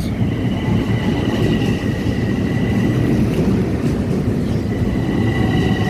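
Long Island Rail Road M7 electric train running into the station: a loud, steady rumble of wheels on rail with a steady high-pitched whine on top.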